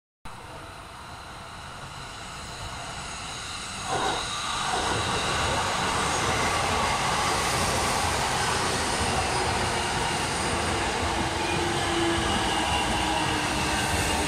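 A JR East E233-3000 series electric multiple unit approaching and then running past close by. The sound builds slowly, jumps sharply about four seconds in as the cars reach the camera, then holds a steady loud rush of wheels on rail as the train goes by.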